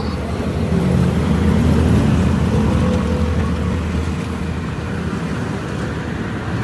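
A road vehicle passing close by: a low engine and tyre rumble that swells about a second in and fades again.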